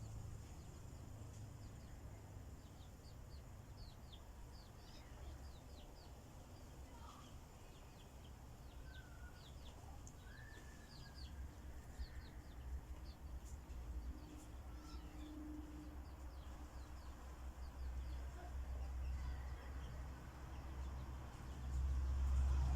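Many short, high chirps from small birds, thickest through the first half, with a few lower calls in the middle. A low rumble grows louder near the end.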